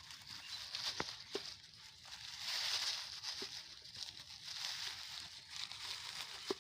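Old plastic rubbish crinkling and rustling as it is handled, coming in swells, with a few sharp clicks.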